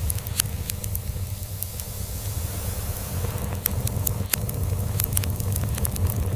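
Log fire crackling, with irregular sharp pops and snaps, over a steady low cat purr.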